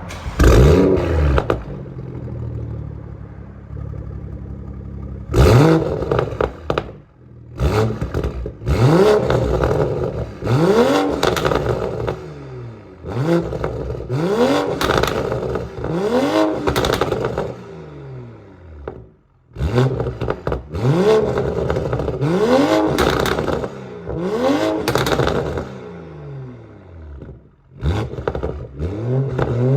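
BMW M340i's 3.0-litre turbocharged inline-six, breathing through a Kunstwerk HPX aftermarket exhaust, flares loudly at the start and settles to a steady idle. It is then blipped in quick groups of sharp revs, each rising and falling back, with a deep exhaust note and crackle as the revs drop.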